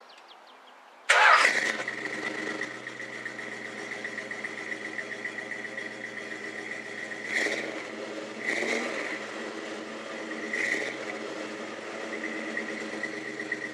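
A 1993 Ford Mustang Cobra's 5.0 V8 starts about a second in and settles into a steady idle with a constant high whine, and is blipped briefly three times.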